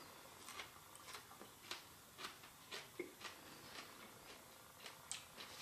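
Faint crunching of someone chewing a pickled ramp, a soft click about twice a second.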